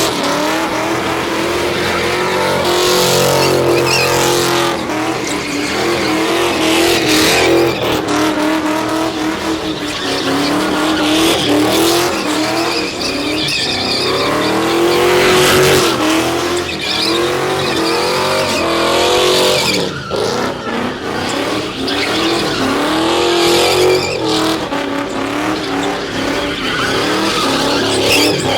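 Car engine revving up and down repeatedly, over and over, with tyres squealing as the car slides sideways under power.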